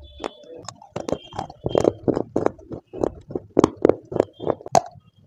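Close-miked chewing of crunchy baked clay, sharp crunches about four a second.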